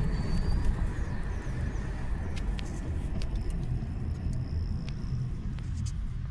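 Car driving: a steady low rumble of road and engine noise, with a few brief high chirps over it.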